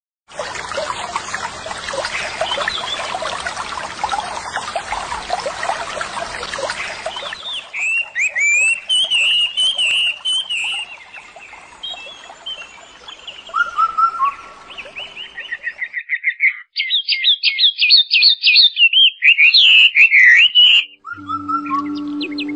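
Songbirds singing. For the first several seconds it is a dense chorus of many overlapping chirps. Then one bird sings phrases of swooping whistled notes, ending in a loud run of rapid notes. The birdsong cuts off about a second before the end, and flute-like music begins.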